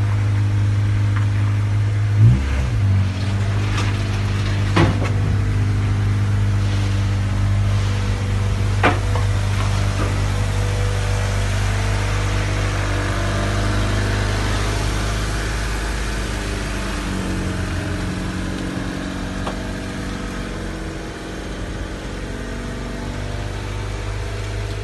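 Car engine running steadily, with a brief rev about two seconds in and a few sharp clicks.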